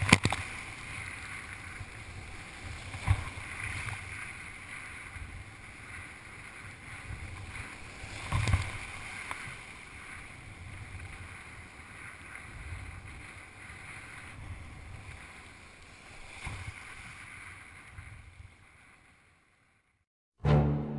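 Surf kayak out in breaking waves: a steady rush of water and wind, with three sudden louder crashes of surf or splashes. It fades out near the end, and music starts just before the close.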